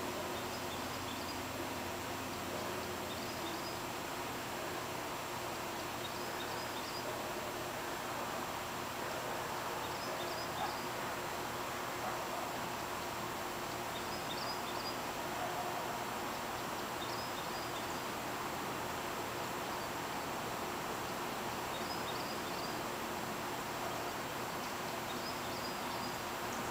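Steady outdoor background hiss with a small bird's short, high chirps every few seconds.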